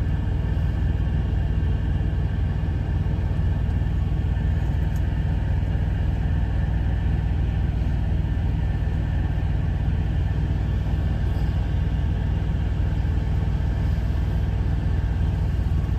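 Steady low rumble of an idling diesel engine, heard from inside a parked semi truck's cab.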